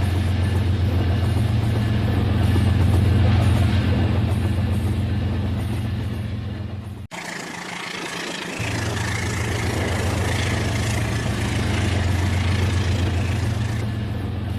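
Rail King battery-powered toy train running on its track: a steady low motor hum with a rattling wheel noise over it. The sound cuts off abruptly about seven seconds in and resumes, the hum returning a moment later.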